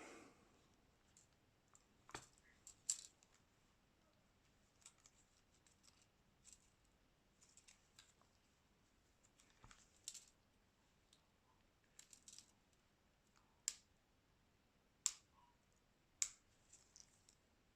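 Scattered small clicks and taps of hand tools and plastic parts on a smartphone being worked on, a dozen or so sharp ticks at uneven intervals with the loudest few in the second half.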